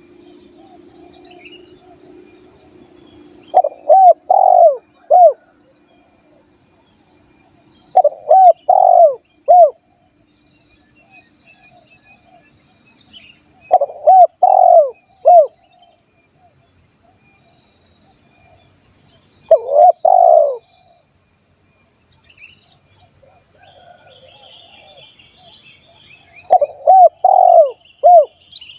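Spotted dove (tekukur) cooing: five phrases of three or four mellow, arched coo notes, repeated every five or six seconds. It is a lure call for drawing in wild doves. A steady high insect drone runs underneath.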